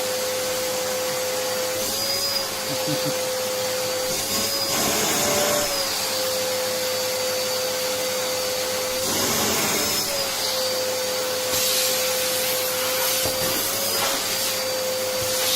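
Vacuum cleaner running steadily with a constant motor whine and rushing hiss, its pitch briefly wavering a few times and a short louder rush about nine seconds in, as the airflow changes.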